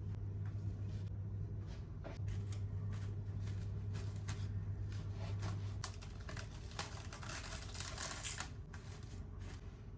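Light clicks and taps of kitchen work, such as utensils on dishes or a counter, coming thicker toward the end. Under them runs a steady low hum that drops out briefly about two seconds in and stops about six seconds in.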